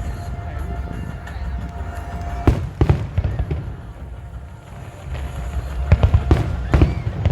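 Fireworks going off: sharp bangs twice about two and a half seconds in, then a quick cluster of bangs near the end, over a continuous low rumble of distant bursts.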